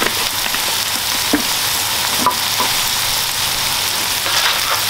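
Ground beef, chicken patties and diced red onion sizzling in oil on a hot flat-top griddle: a steady hiss with a few scattered pops.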